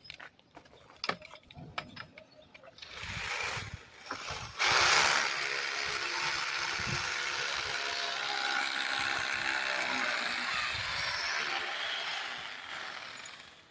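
A few light clicks and knocks, then a steady mechanical whirring with a faint hum starts loudly about four and a half seconds in and runs for about eight seconds before fading near the end.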